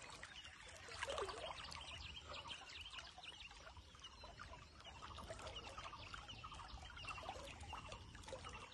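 Birds chirping and calling with many short, overlapping calls, over a faint low rumble.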